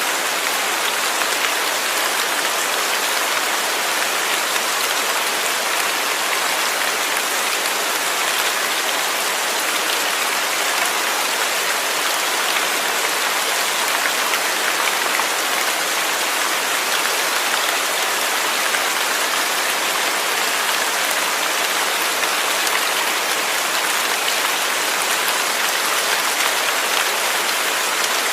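Steady rain falling, an even hiss with many close drops pattering on a surface.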